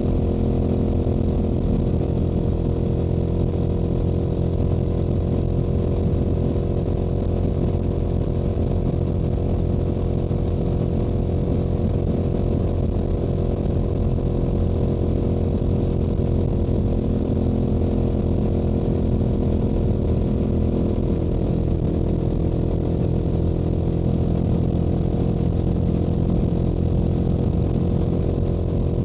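Stock exhaust of a Yamaha YZF-R7's parallel-twin engine running steadily at highway cruising speed, holding an even engine note.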